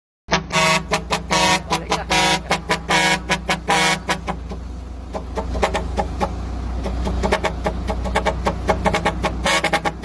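Truck horn sounded in many short pitched toots in quick succession, over the steady low drone of a running engine; the toots thin out for a couple of seconds around the middle, then come thick again.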